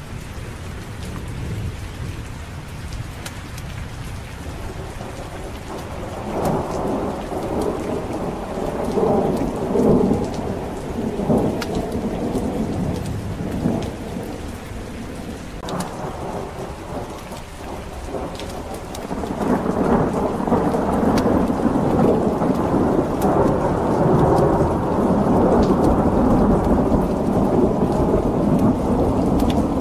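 Steady rain with rolling thunder. A rumble swells about six seconds in and fades, then a longer, louder roll of thunder builds about twenty seconds in and carries on.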